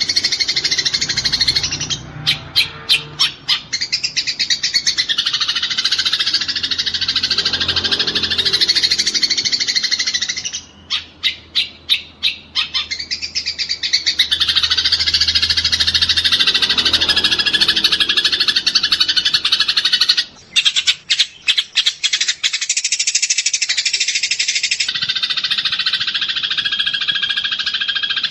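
Eurasian tree sparrows making fighting calls: a dense, continuous mass of high, rapid chirps and chatter. Three times it breaks into a run of sharp, evenly spaced chips, about five or six a second.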